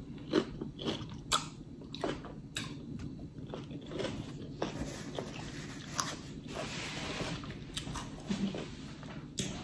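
Close-miked chewing and mouth smacking on a mouthful of snow crab meat: a string of short, sharp clicks, about two a second at first and more scattered later.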